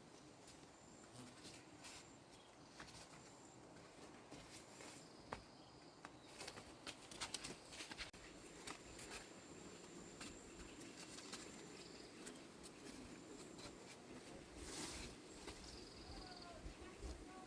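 Near silence with scattered small clicks and rustles, busiest in the middle, and faint thin high tones that come and go.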